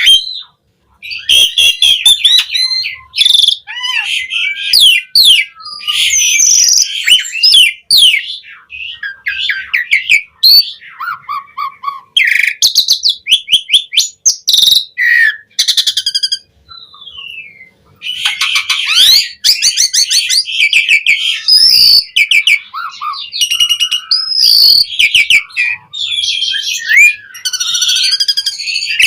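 Asian pied starling (jalak suren) in full song: a long, varied run of rapid chattering trills, gliding whistles and clicks, broken by a few brief pauses, including a longer one about two-thirds of the way through.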